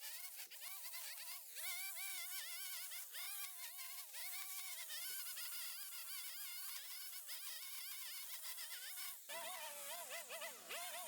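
Small two-stroke power-tool engine running at high revs, its pitch wavering up and down continuously as the load changes. The sound changes abruptly about nine seconds in, where a lower hum joins it.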